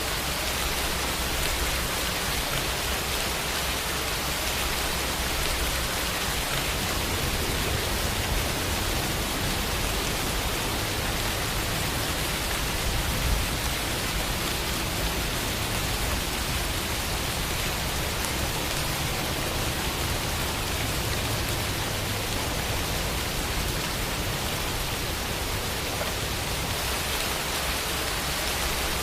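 Steady rain falling, an even hiss of many drops with no other sounds.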